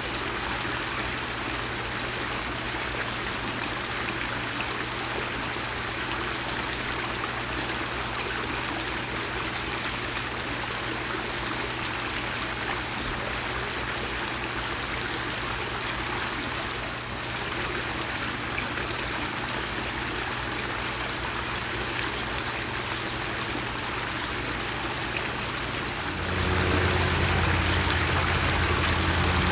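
Steady rushing noise, like running water, with a low hum underneath. A louder low hum joins near the end.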